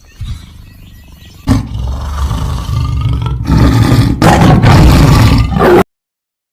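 A lion roaring: a deep, rough roar that begins faintly, swells about a second and a half in, is loudest in its last two seconds, and then cuts off abruptly.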